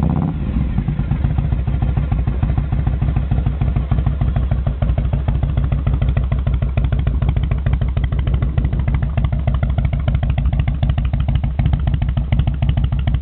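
Harley-Davidson Evolution V-twin running through Hooker Headers fishtail mufflers with their Tuned Flow baffles fully open: a short rev falls away right at the start, then it idles steadily with a loud, even, deep, muffled beat.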